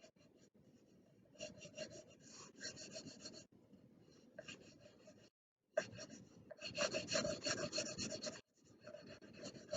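Drawing tool scribbling on paper: quick back-and-forth coloring strokes in short runs, growing louder in the second half after a brief pause.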